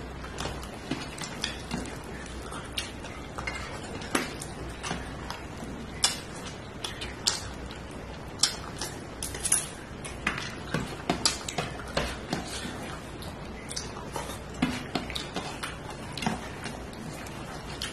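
Close-up eating sounds: chewing and mouth noises of a meal of rice and fish curry, with irregular light clicks and clinks against a plate.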